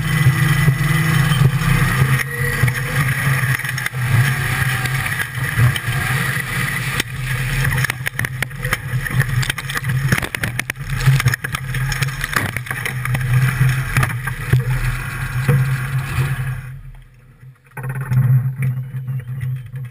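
Engine of a turbocharged formula offroad car running steadily under a loud hiss, with scattered knocks and rattles. About three-quarters of the way in the hiss stops suddenly and the engine sound dips. It comes back a second or so later with much less hiss.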